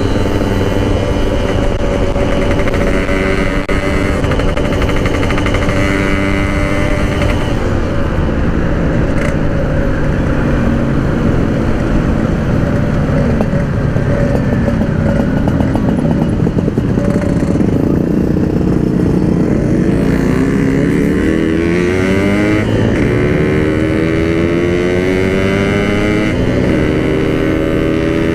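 Yamaha RX-King's two-stroke single-cylinder engine running under way at steady revs, then falling and wavering in the middle. Its pitch rises again over the last several seconds as it accelerates.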